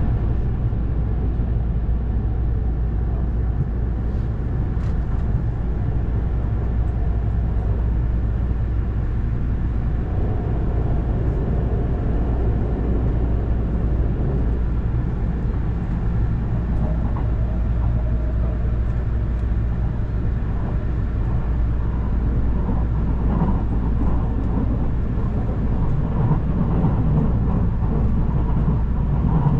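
Passenger train heard from inside the carriage while under way: a steady low rumble of the running train on the rails.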